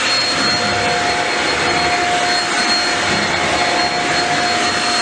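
Shark Rocket Complete with DuoClean upright vacuum running steadily while picking up cracker crumbs from the floor: a loud rushing hiss with a steady high motor whine.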